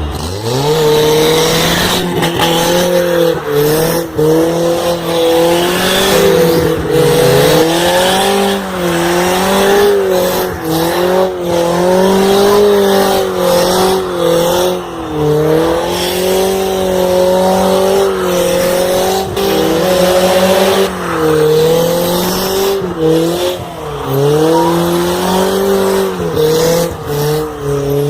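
Car doing a burnout: the engine is held at high revs, its pitch wavering up and down with a few brief dips, while the spinning rear tyres squeal, until the tyre is worn through.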